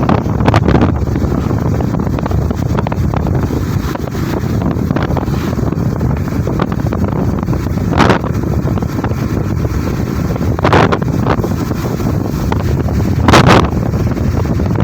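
Wind buffeting the microphone: a steady low rumble with stronger gusts about half a second in, at about eight and eleven seconds, and again near the end.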